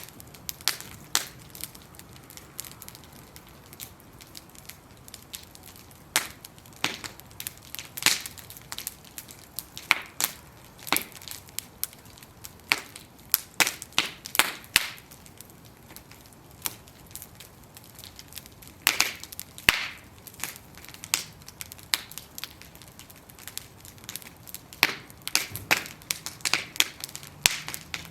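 Bonfire of wooden planks burning, crackling with irregular sharp pops and snaps over a low hiss of flame.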